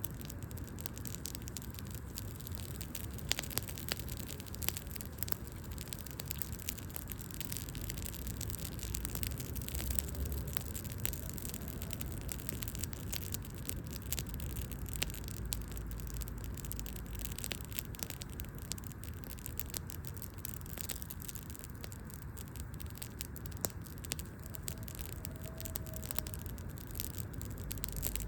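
Wood fire crackling, with many small crisp pops and now and then a sharper snap, over a low steady rumble.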